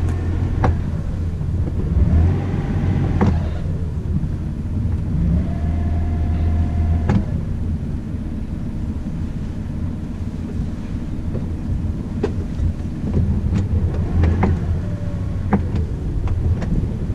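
A sailing catamaran's diesel engine running steadily at low speed, a deep hum, with a whine that rises, holds and falls three times and a few scattered clicks.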